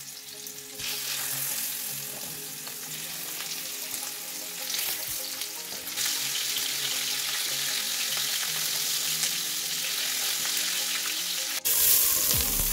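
Oxtail pieces sizzling in hot oil in a frying pan, a steady hiss that jumps louder at a cut about six seconds in. Near the end it changes to chopped onions sizzling in a steel pot, stirred with a wooden spoon.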